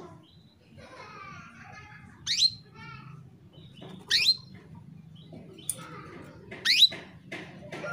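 Female canary calling: three loud, sharp upward-sweeping call notes spaced a couple of seconds apart, with soft twittering between them. These are the calls of a hen in breeding condition, used to stir male canaries into song.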